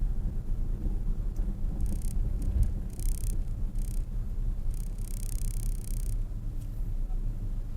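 Car engine and road rumble, low and steady, with a faint high-pitched hiss briefly about three seconds in and again for about a second near the middle.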